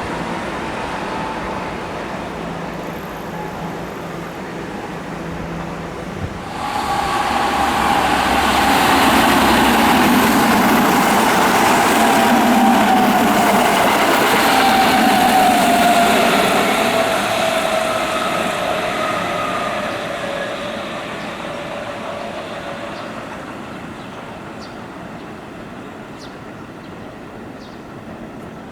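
Keihan electric train passing through at speed: it comes on suddenly about six seconds in, runs loud for about ten seconds with a whine that slowly falls in pitch, then fades away.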